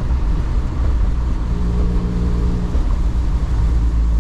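Manual rear-wheel-drive car driving, its engine running with a steady low rumble over tyre and road noise; an extra engine tone comes in for about a second in the middle.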